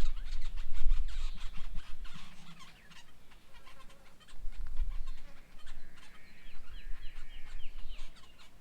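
Several birds chattering and calling at a bird table in short harsh notes, with a quicker run of repeated calls near the end. A low rumble sits underneath, loudest in the first couple of seconds.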